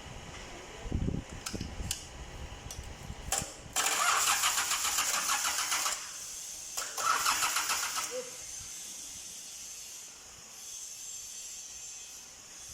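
Mitsubishi 4D32 four-cylinder diesel engine turned over by its starter motor in two bursts, about two seconds and then just over a second, with a fast even pulsing, without firing up. The engine has just been overhauled and had air bled from its fuel system.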